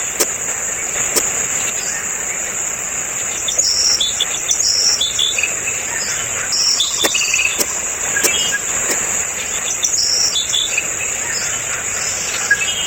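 Steady high-pitched insect drone, with birds chirping in short notes through the middle and a few sharp clicks.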